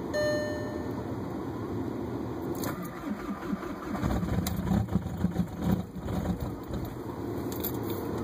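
Volkswagen Jetta TDI diesel engine running cold shortly after a cold start in sub-15°F weather, with a short beep right at the start and a louder, uneven stretch from about three to six and a half seconds in.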